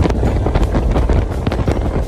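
Wind buffeting the microphone of a motorcycle camera while riding at speed, over a low, steady engine and road rumble.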